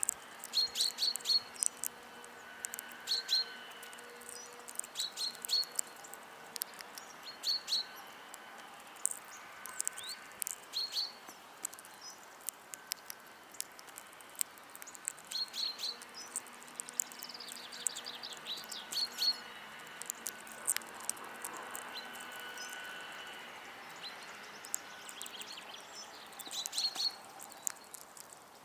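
Small songbirds chirping at a feeder: short, high calls in quick clusters of two to four, repeating every second or two. Many sharp clicks are scattered among them.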